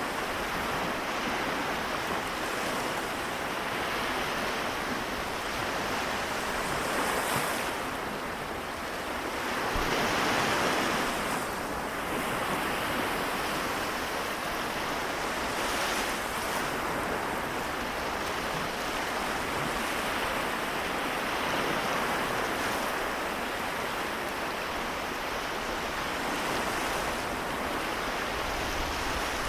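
Small waves washing and breaking on the Seto Inland Sea shore, a steady wash that swells a little and falls back, most strongly about ten seconds in.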